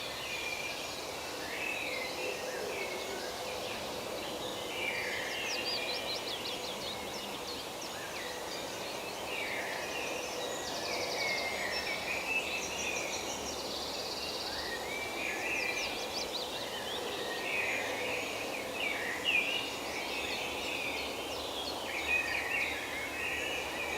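Forest ambience with several songbirds chirping and trilling at once over a steady background hiss.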